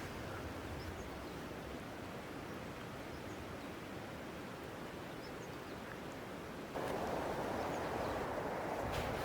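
Steady outdoor rushing of wind and surf, stepping up suddenly in level about seven seconds in.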